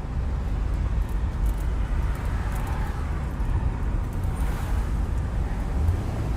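Car driving, heard from inside the cabin with the windows down: a steady low rumble of engine, tyres and road, with some wind.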